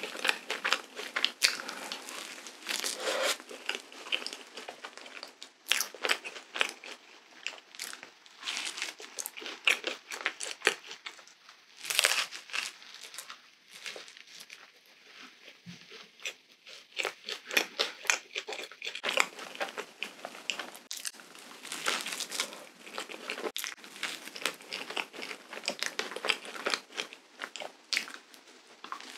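Close-miked eating of waffle with whipped cream: irregular crisp bites and chewing with wet, sticky mouth sounds, easing off briefly about halfway through.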